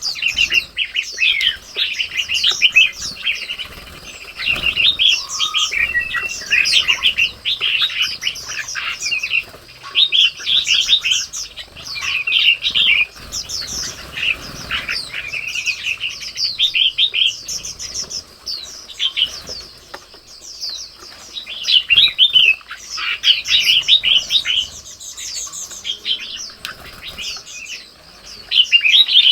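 Many small birds chirping and twittering in quick, overlapping calls, with brief lulls in between.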